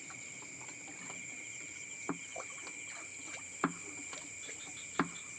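Insects droning steadily at a high pitch, with scattered sharp clicks or knocks; the three loudest come about a second and a half apart.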